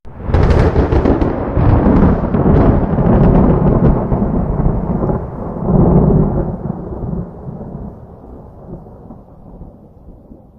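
A thunderclap: a sudden loud crack with crackling, then a deep rolling rumble that swells again about six seconds in and slowly fades away.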